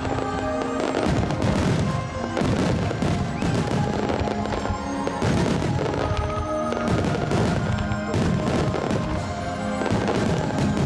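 Fireworks bursting one after another, a steady run of booms and sharp cracks, over music with long held notes played for the show.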